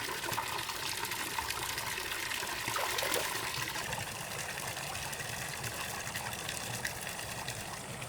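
Water splashing and trickling steadily, with many small droplet-like ticks.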